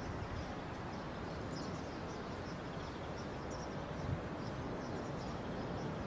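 Outdoor ambience: a steady wash of background noise with small birds chirping briefly every second or so.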